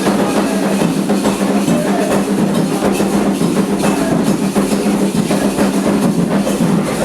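Dense, steady Candomblé ritual drumming, rapid strokes continuing without a break, with voices faintly mixed in.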